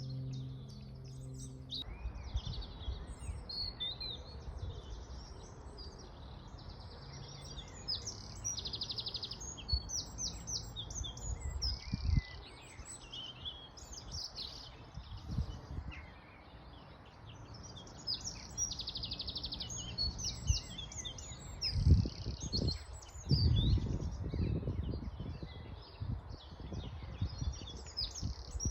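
Several songbirds singing and calling at once, a busy mix of quick high chirps and trills, over a steady faint background rush. A few low rumbles or thumps come in about halfway and again near the end.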